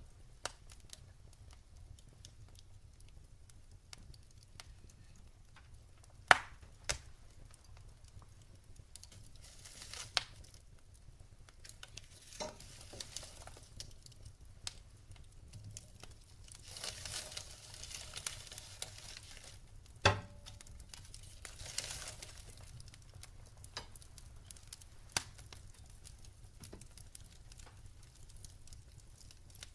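Wood fire burning in a fireplace: logs crackling with scattered sharp pops, the loudest about six seconds in and again about twenty seconds in, over a low hiss that swells now and then.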